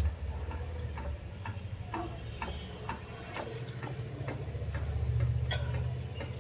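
Budgerigars giving short, sharp chirps about twice a second, over a steady low hum.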